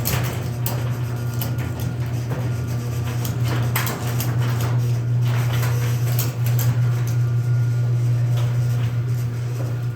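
Chamberlain PD210 garage door opener running steadily, moving the door: a strong, steady motor hum with many irregular clicks and rattles.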